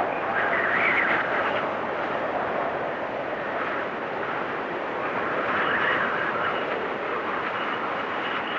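Blizzard wind blowing steadily, with gusts swelling about a second in and again around six seconds.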